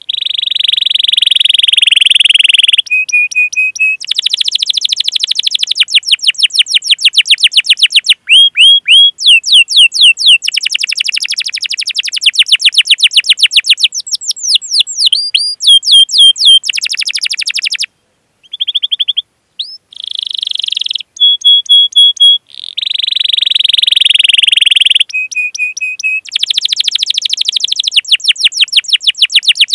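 Domestic canary singing a long, loud song: fast rolling trills of rapidly repeated chirps, buzzy rattling phrases and short held whistled notes, broken by brief pauses. This is the 'cuit cuit' rolling canary song used as a masteran to prompt other canaries to sing.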